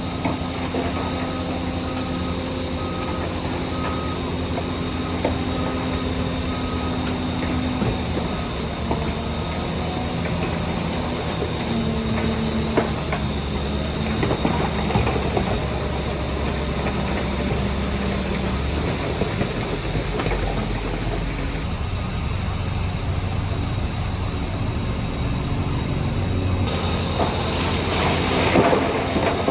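Crawler bulldozer's diesel engine working steadily, its pitch shifting a few times, with scattered clanks and squeaks of the steel tracks and blade. A louder rush of noise comes near the end.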